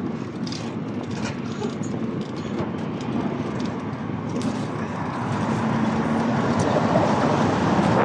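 Street traffic noise: vehicles running past on a city road. It grows louder from about five seconds in, with a low hum from a vehicle close by.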